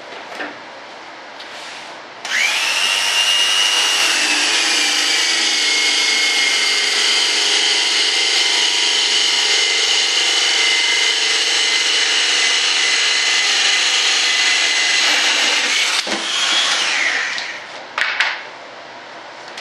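Electric power saw switched on about two seconds in and run steadily for roughly fourteen seconds, cutting a scrap wooden board, then switched off, its whine falling as the blade spins down. A brief second burst of the saw comes near the end.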